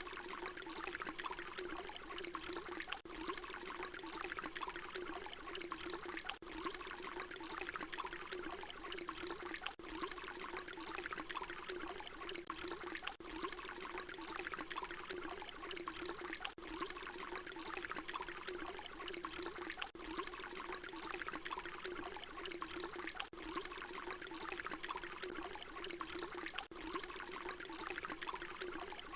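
Water pouring in a steady stream, a short recording looped so that a brief dip recurs about every three seconds.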